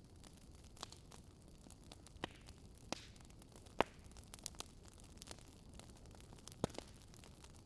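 Wood fire burning in a fireplace: scattered sharp crackles and pops over a low, steady hiss, the loudest pop a little under four seconds in.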